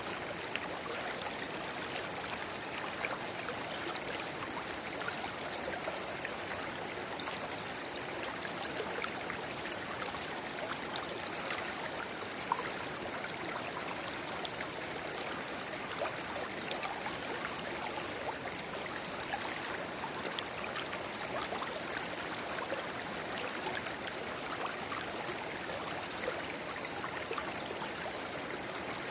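Steady babble of a river, with a small spring-fed rivulet pouring into the main stream; continuous flowing water with many small splashes and trickles.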